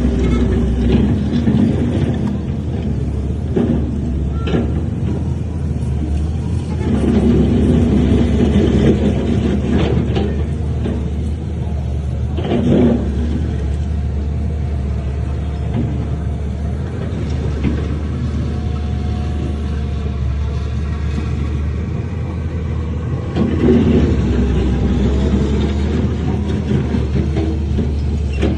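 Heavy diesel earthmoving machinery running with a steady low hum, rising under load twice. A few sharp knocks come along the way.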